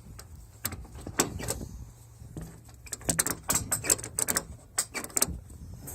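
Metal clinking and rattling from tools and compartment hardware on a pickup's service body being handled: a few separate clicks in the first second or so, then a quick, dense run of clatter about three seconds in.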